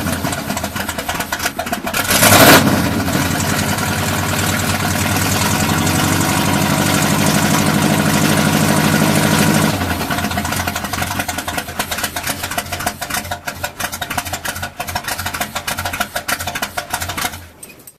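Demolition derby car engines running and revving, with two loud bursts of revving near the start. A steady engine drone holds until about ten seconds in, then the sound turns rougher and uneven before cutting off just before the end.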